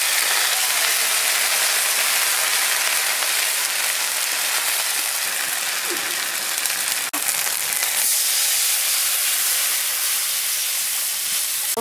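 Chilli, bay leaf and ginger pastes frying in hot mustard oil in an iron kadai: a steady, loud sizzle.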